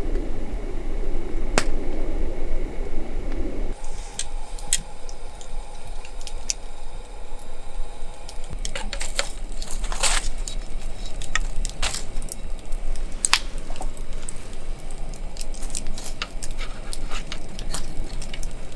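Campfire crackling, with many short, irregular pops and snaps. About four seconds in the sound changes abruptly from a low rumble to sparser, sharper pops.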